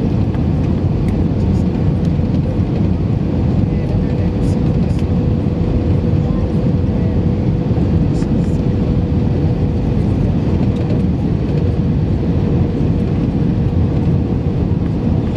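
Airbus A319 cabin noise: the steady, loud rumble of the engines and airflow, with a thin steady whine running through it.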